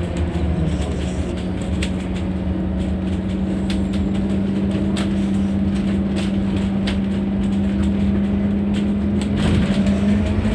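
Scania N230UD double-decker bus running with a steady engine drone and low rumble, scattered light clicks and rattles, and a slight rise in loudness near the end.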